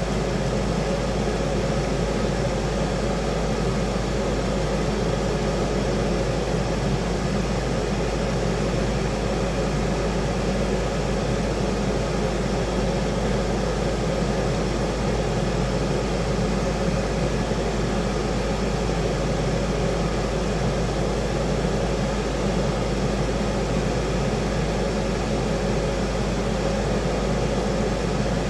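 Kitchen fan running: a steady, even rush of air with a faint hum that does not change.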